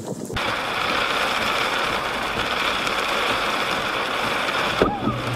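Steady heavy rain falling on a car's windshield and roof, heard from inside the car; it cuts off sharply near the end.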